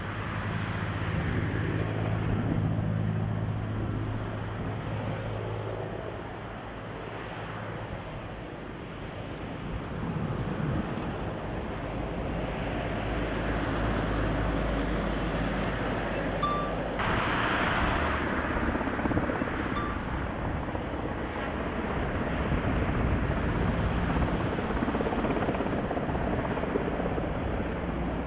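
Firefighting helicopter's rotor and engine running overhead: a steady low drone with even tones for the first several seconds, giving way to a broad rumble for the rest.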